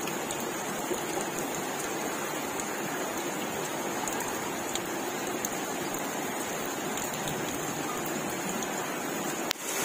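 Rain-swollen stream rushing in a steady, even wash of water noise, with a brief click and dropout near the end.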